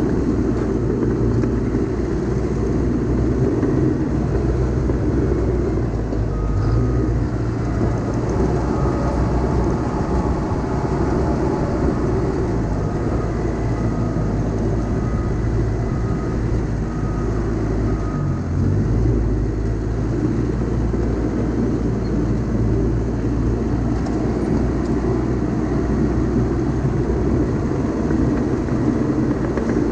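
Heavy earthmoving machine's diesel engine running steadily under load, with a backup alarm beeping at an even pace for several seconds from about six seconds in, and again near the end.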